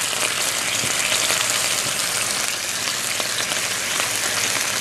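Red squirrel meat frying in hot oil in a nonstick pan: a steady sizzling hiss with small crackles.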